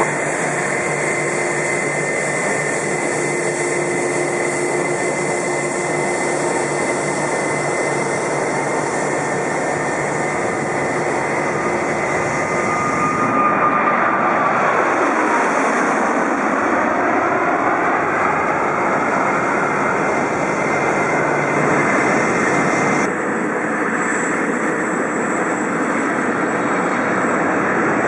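Jet airliner's turbofan engines running loud and steady; about halfway through, a whine drops in pitch as the aircraft passes. Near the end the sound changes abruptly.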